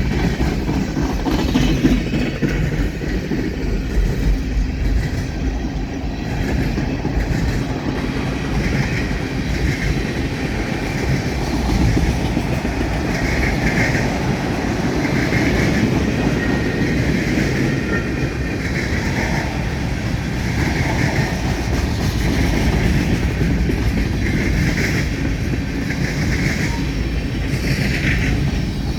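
Freight train cars rolling past at a railroad diamond crossing: a steady rumble with wheels clattering over the crossing and rail joints about every second.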